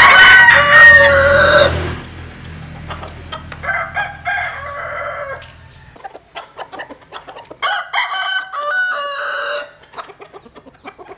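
Bantam roosters crowing: one loud crow that ends about two seconds in, a fainter crow around four seconds, and a third near eight seconds. Scattered sharp ticks in the second half.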